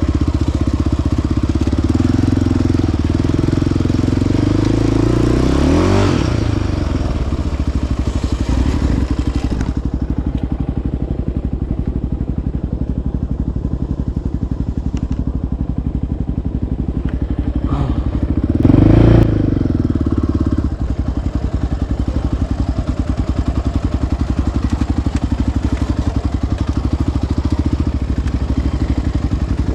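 Single-cylinder ATV engine running under way on a trail. The revs rise and fall, sharply about six seconds in and again around nineteen seconds, where it is briefly loudest.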